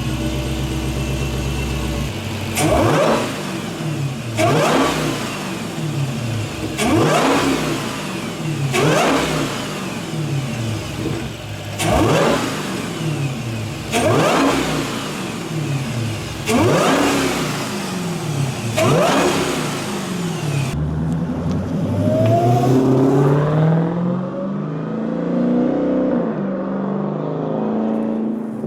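Dodge Challenger SRT's supercharged 6.2-litre HEMI V8 idling, then revved in eight quick throttle blips about two seconds apart, each climbing and falling back, followed by a longer, slower rev. The supercharger whine rides on each rev, heard through the open K&N cone air filter.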